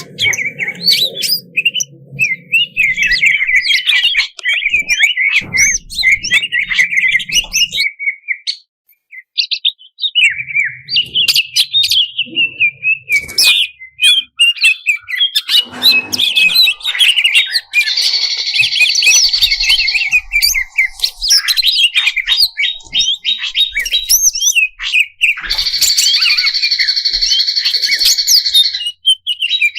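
Cucak cungkok songbird singing a fast, varied run of chirps and whistles, pausing briefly about a third of the way in. Two harsh, buzzy phrases stand out, one about two-thirds of the way through and a longer one near the end.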